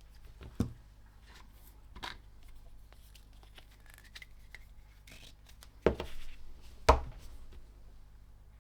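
New electrolytic capacitors and a 3D-printed plastic fitting handled and set in place: about four sharp clicks and knocks, the loudest near seven seconds in, over a faint steady low hum.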